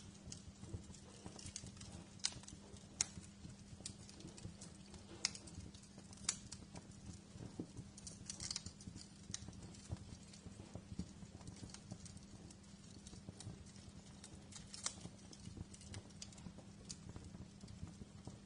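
Wood fire in a fireplace crackling: irregular sharp pops and snaps, a few louder than the rest, over a low steady hum.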